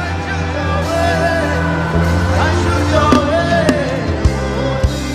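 Live gospel worship band playing between sung lines: sustained bass and keyboard chords, with a few drum hits near the end.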